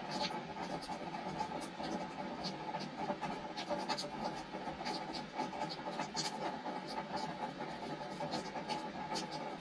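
Rain falling on a wooden deck: a steady hiss of rain with many sharp, irregular drops and drips tapping on the boards.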